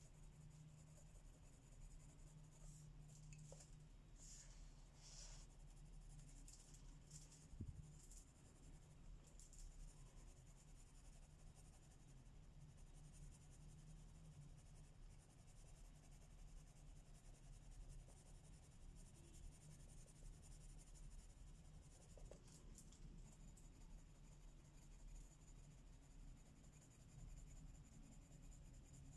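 Pencil scratching faintly on paper in short, uneven stretches of colouring strokes, over a low steady hum.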